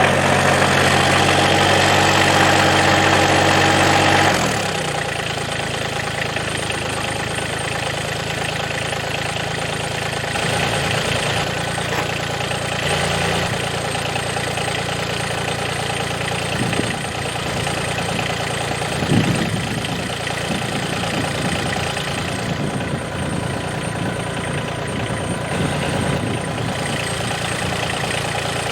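Massey Ferguson GC2300 sub-compact tractor's three-cylinder diesel engine running, at a higher speed for the first four seconds or so, then settling to a steady lower idle.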